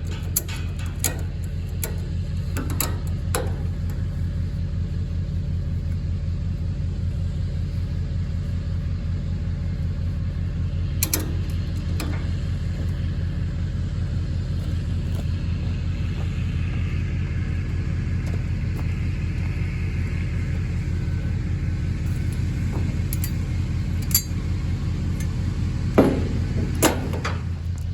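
An engine idling steadily, with a few sharp clicks and clanks from the tie-down work: one about a third of the way in and a cluster near the end.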